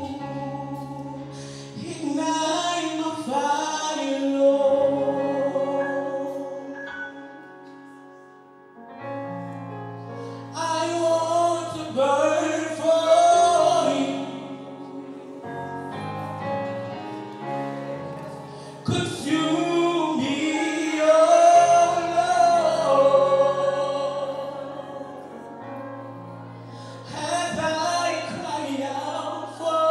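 Gospel praise-and-worship singing: voices hold long sung phrases over sustained chords that change every few seconds, swelling and fading in waves.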